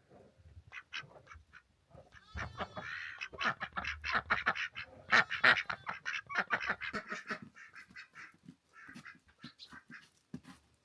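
Farmyard fowl giving many quick, overlapping short calls, busiest and loudest in the middle and thinning out toward the end.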